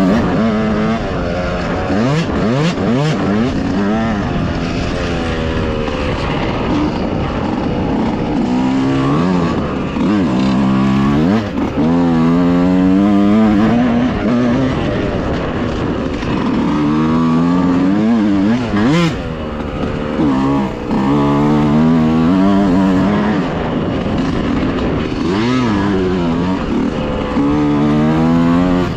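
Dirt bike engine revving as it is ridden along a trail, its pitch climbing and dropping again and again as the rider accelerates, shifts and backs off for corners.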